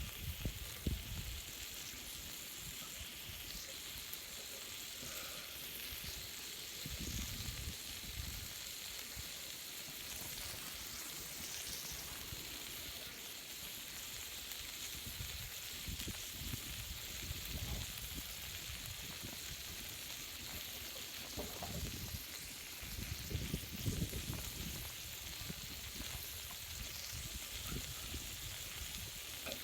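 Food sizzling steadily on a thick iron griddle plate, a constant high hiss, with a few low rumbles breaking in now and then.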